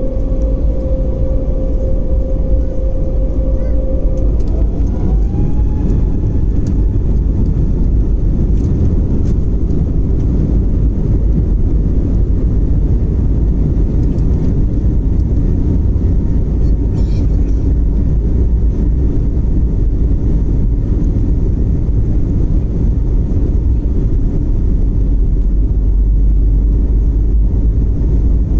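Airliner's jet engines at takeoff, a loud steady rumble. About four seconds in, a humming tone glides up in pitch and then fades into the rumble.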